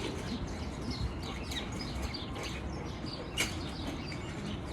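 Small birds chirping in quick short calls over a steady low rumble, with one sharp click about three and a half seconds in.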